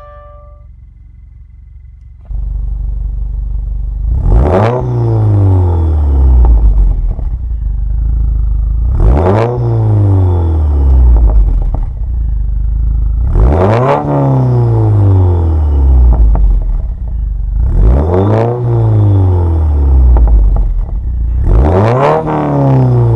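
2015 Subaru WRX turbocharged flat-four fitted with an Invidia Q300 aftermarket exhaust. It starts idling about two seconds in, then is revved five times, roughly every four to five seconds. Each rev rises sharply and falls back to idle over about two seconds.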